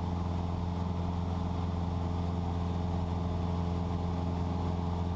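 Cessna 172's piston engine and propeller running steadily at cruise power, a constant low drone heard from inside the cabin.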